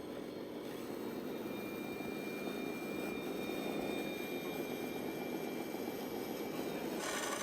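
RC scale model tractor running: a steady engine-like drone with a faint high whine from its electric drive, changing to a brighter, noisier sound about seven seconds in.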